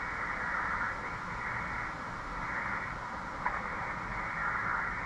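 Steady hiss of 20-metre band noise from an HF transceiver's speaker, cut off above and below by the narrow single-sideband receive passband, while listening for a weak station's reply. A short click about three and a half seconds in.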